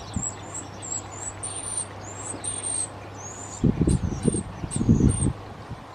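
A small songbird repeating short, thin, very high-pitched calls throughout. Low rumbling noise comes in bursts from about halfway through and is louder than the calls.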